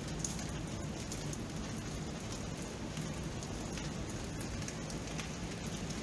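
Steady rain: an even hiss with scattered sharp drop ticks through it.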